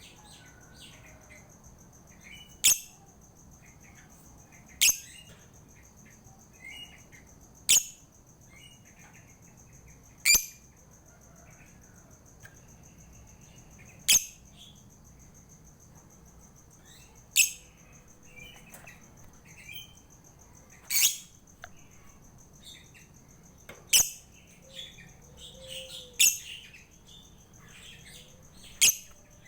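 Lovebird calling: about ten sharp, shrill chirps, a few seconds apart, with softer twittering in between, over a steady faint high tone.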